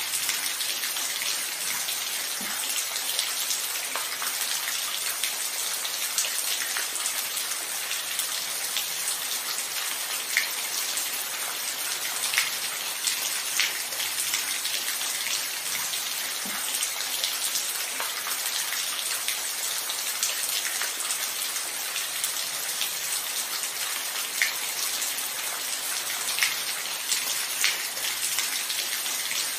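Steady rainfall: an even, dense hiss with louder single drops ticking now and then.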